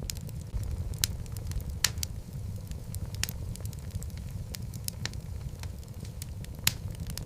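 Logs burning in a fireplace: a steady low rumble of flame with sharp crackles and pops scattered irregularly throughout. The loudest pops come about a second in, near two seconds, and near the end.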